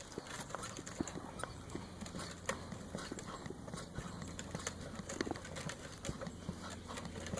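Hand vacuum pump squeezed over and over, its strokes making irregular light clicks and taps as it draws vacuum on the Garrett variable-vane turbo's actuator to pull the vanes open.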